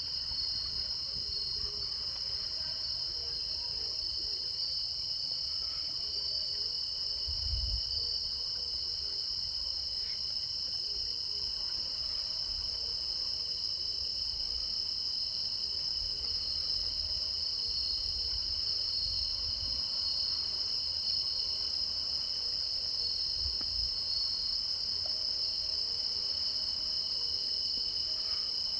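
Steady high-pitched chorus of crickets trilling without a break, with a few brief low rumbles along the way.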